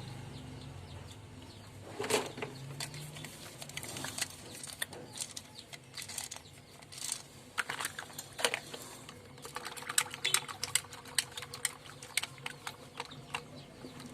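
Plastic toy cars clicking and clattering as they are handled and knocked together, in irregular light taps with a few louder knocks.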